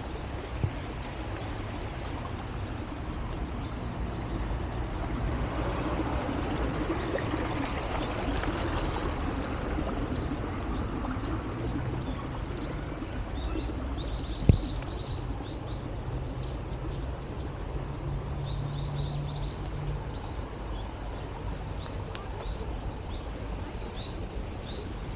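Outdoor ambience: small birds chirping in short repeated calls over a steady low rumble that swells and fades in the first half. Two sharp clicks stand out, one near the start and a louder one about halfway.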